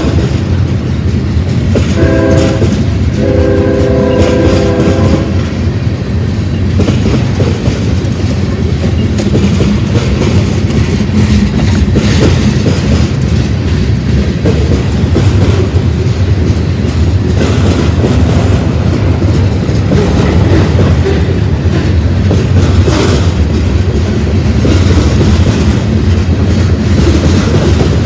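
Freight train locomotive's air horn sounding a chord: a long blast that ends just after the start, then a short blast about two seconds in and a longer one right after. A manifest freight train then keeps rolling past, a loud steady rumble with wheels clacking over the rail joints.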